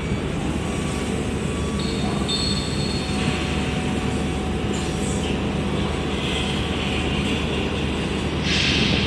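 Steady low drone of the ro-ro ferry's machinery, with a brief hiss near the end.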